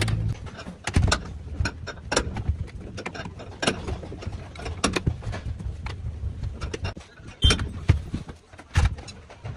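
Irregular metallic clicks and knocks of hand tools on car body parts, with two louder knocks near the end.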